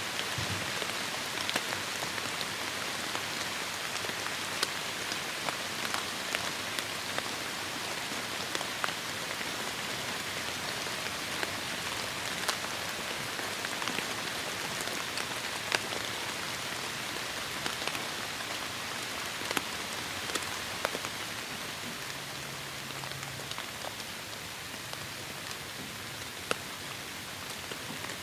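Heavy rain falling steadily: a dense, even hiss with individual drops ticking sharply here and there.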